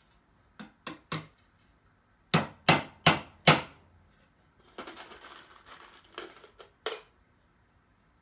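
Hammer nailing cedar boards together: three light taps to start the nail, then four hard blows about a third of a second apart. A spell of rustling handling follows, with a few more knocks near the end.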